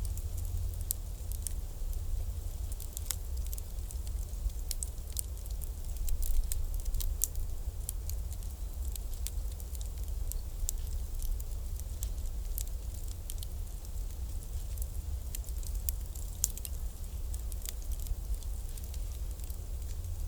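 Bonfire crackling: many small irregular snaps and pops over a steady low rumble, with a few louder pops here and there.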